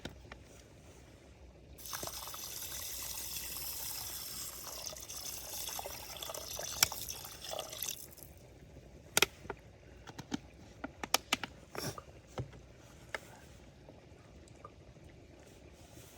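Liquid pouring or trickling for about six seconds, then a run of light clicks and knocks.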